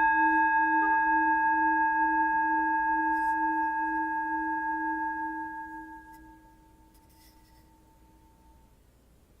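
A singing bowl, struck just before, rings on with several steady tones, its lowest one wobbling, and slowly fades away about six seconds in, marking the close of the yoga practice.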